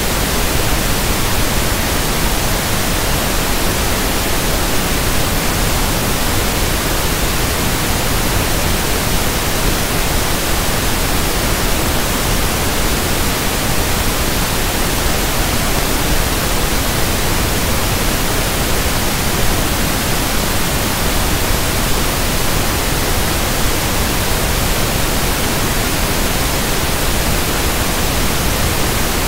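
Synthetic pink noise (1/f noise): a steady, even hiss across the whole range, unchanging throughout.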